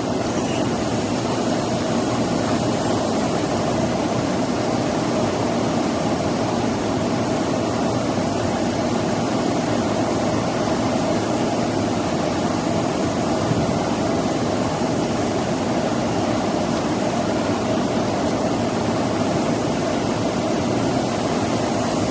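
Steady, unbroken drone of a large engine or machine running at constant speed.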